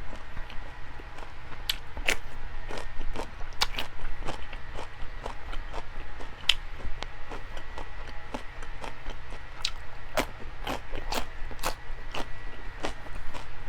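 Close-miked chewing and biting of food, with irregular sharp clicks and crunches spread through.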